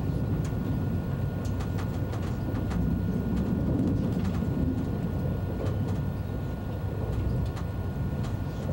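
Steady low rumble of an early ICE high-speed train heard from inside, with scattered light clicks and ticks over it.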